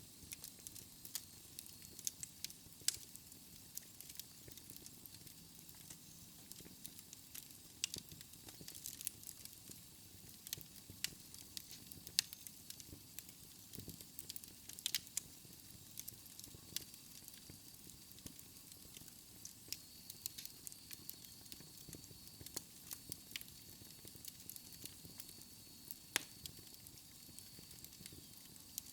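Wood logs burning in a fireplace, crackling with frequent sharp, irregular pops over a soft steady hiss.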